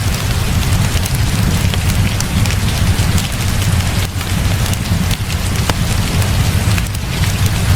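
Heavy rain falling steadily, with a strong low rumble underneath and scattered sharp crackles from a wood fire.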